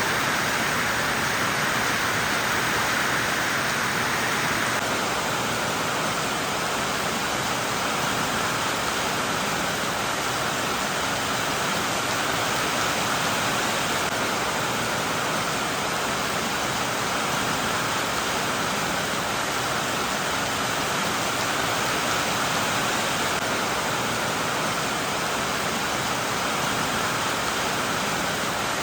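Heavy rain falling steadily, an even hiss of rainfall.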